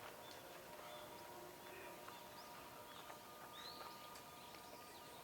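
Faint outdoor background with a few short, distant bird chirps.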